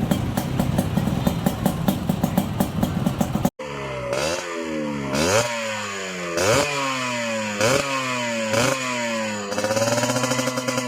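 Motorcycle engine running through an aftermarket racing exhaust. First comes a lumpy, crackling idle. After a sudden break come repeated throttle blips about once a second, each rev climbing and dropping back, ending in a longer held rev.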